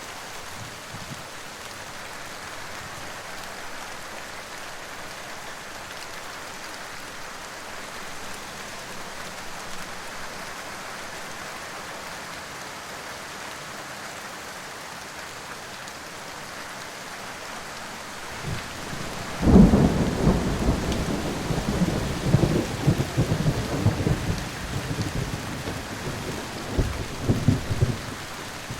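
Steady hiss of rain, then about two-thirds of the way in a loud, uneven low rumble that lasts several seconds.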